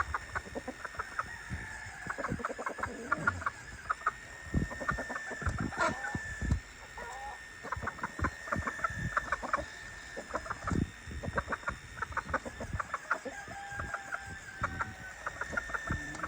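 Domestic chickens clucking in short, quick notes, over a thin steady high whine and scattered low thumps.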